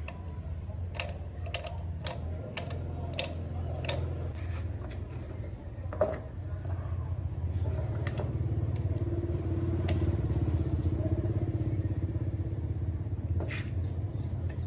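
A motor running with a steady low hum, with several sharp clicks in the first few seconds. It gets louder about eight seconds in, and a single click comes near the end.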